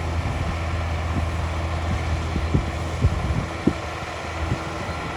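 Heavy diesel engine of earthmoving machinery running steadily, with several sharp knocks in the middle.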